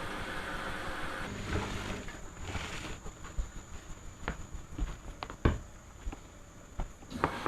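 Repaired washing machine running a quick wash. Its steady running noise drops away about a second in and comes back near the end. In between there is a faint high whine and a scattering of light, irregular knocks and clicks.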